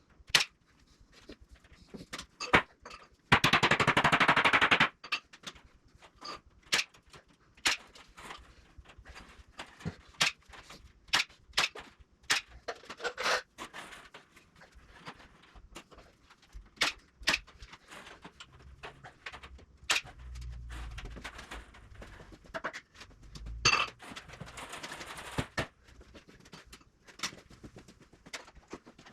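Electric staple gun firing staples one after another into hardware cloth, sharp snaps at an uneven pace. About three seconds in there is a loud rattling noise lasting a second and a half, with a weaker one near the end.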